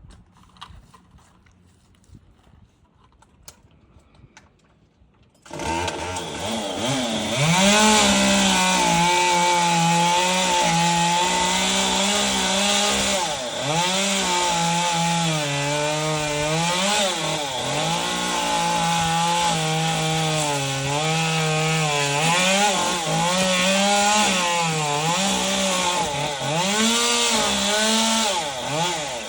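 Chainsaw engine starting up loud about five seconds in, after faint clicks, and running at high revs, its pitch repeatedly sagging and recovering as it cuts through palm fronds.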